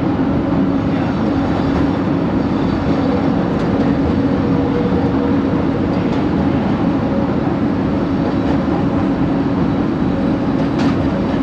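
Kelana Jaya line LRT train running steadily, heard inside the passenger car: a rolling rumble with a steady low hum through it. The hum is likely the weird motor noise the rider traced to coach 4 of train set 70.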